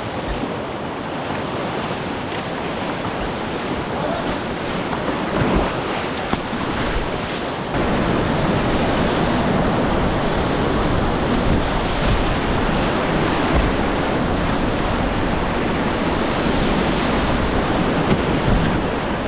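Whitewater of a mountain river rushing around a kayak, a steady noise that gets louder about eight seconds in.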